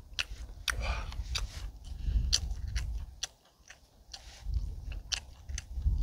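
Close-up chewing of grilled chicken: a run of sharp, wet mouth clicks, with a brief pause a little past the middle. A low rumble of wind buffets the microphone underneath.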